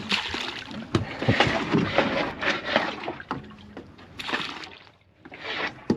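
Water sloshing and splashing around a small boat in irregular surges, with a few sharp knocks, dying down about five seconds in.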